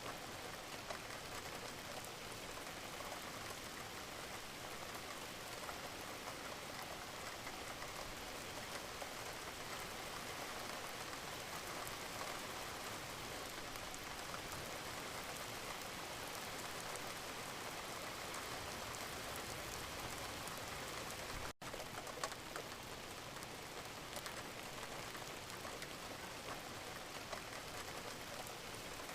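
Steady gentle rain, a dense even patter of drops falling on a surface. The sound drops out for an instant about three-quarters of the way through, then goes on unchanged.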